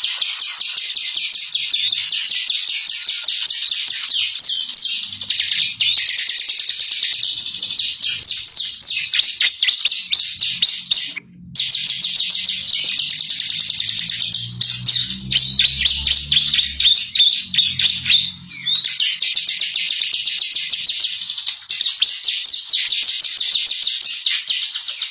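Ciblek (prinia) singing a rapid, continuous song of high chirps and trills, broken once by a short silence about eleven seconds in.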